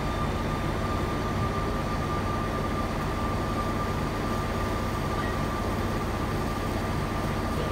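TransRegio Siemens Desiro ML electric multiple unit running along the platform and moving away: a steady rumble with a steady high whine over it.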